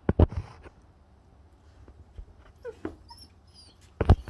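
Dog whimpering in a few short, wavering whines in the middle, with sharp knocks about a second apart near the start and a loud one near the end.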